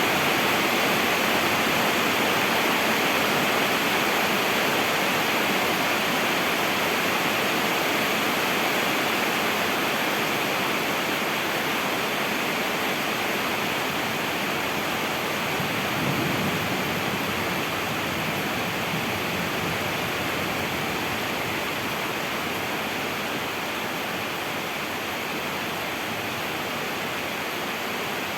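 Steady rain falling, an even hiss that slowly grows a little quieter.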